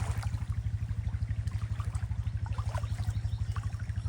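Floodwater trickling and splashing through brush caught in a fence line across a creek, over a steady low pulsing drone of about ten beats a second.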